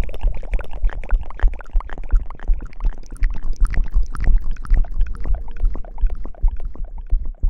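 ASMR hair-washing sounds: fingers scrubbing and rustling right against a microphone, a dense run of fast crackles over heavy low thuds.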